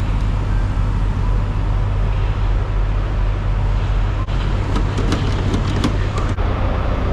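Diesel truck engine idling with a steady low rumble, with a few sharp clicks and knocks in the second half.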